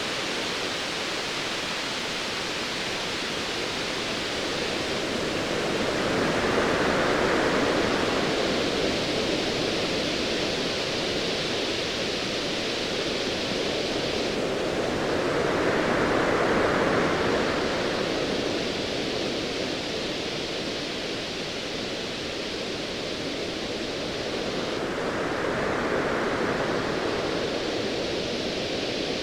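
Ocean waves as a steady rushing wash of surf, swelling and easing three times, about ten seconds apart.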